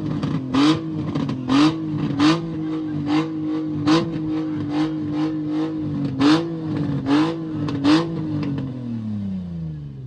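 A vehicle engine held at high revs with sharp cracks about once a second, each with a quick upward jump in pitch. Near the end the engine note falls steadily as it winds down or pulls away.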